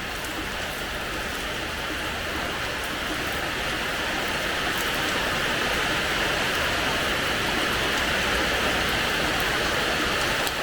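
Steady rain falling on a hard terrace floor: an even hiss with scattered drop ticks, growing slightly louder over the first few seconds.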